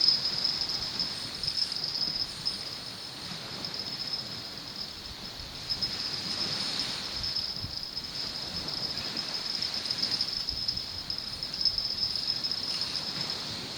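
Insects, crickets or similar, trilling steadily in a high chorus that pulses slightly in level, over a soft rushing background.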